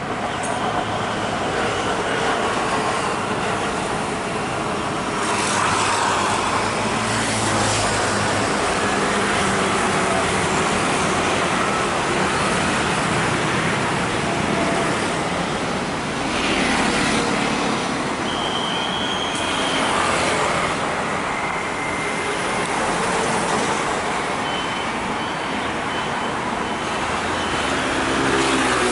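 Steady road traffic: cars, trucks and buses passing, swelling as each goes by. A short high tone sounds about two-thirds of the way through, and a short run of high beeps near the end.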